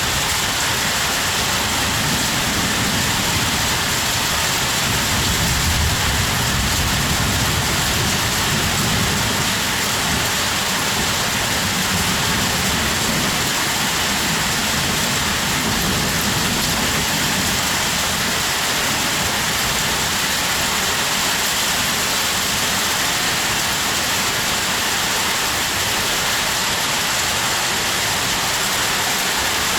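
Heavy rain falling steadily in a dense, even hiss, with a low rumble underneath through roughly the first half.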